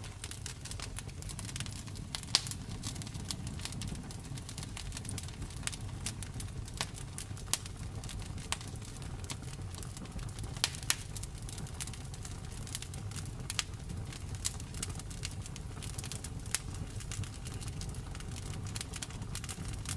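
Wood fire crackling in a fireplace: irregular sharp pops and snaps, a few much louder, over a steady low rumble of the flames.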